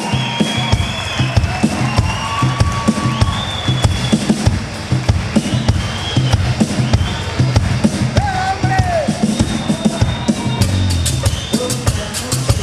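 Live band playing an instrumental passage: a drum kit with a steady kick-drum beat that comes in about half a second in, under bass and melodic lines, with busier cymbal strokes near the end.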